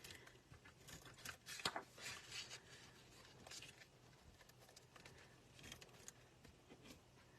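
Faint rustling and light taps of card-stock paper being handled on a desk, with a few scattered short clicks.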